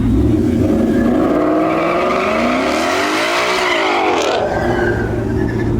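Car engine revving up and back down once, its pitch rising and falling over about two seconds in the middle, over a steady low engine rumble.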